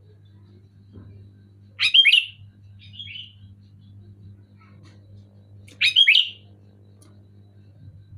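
Sooty-headed bulbul giving short, loud calls, two of them about four seconds apart, with a fainter call between.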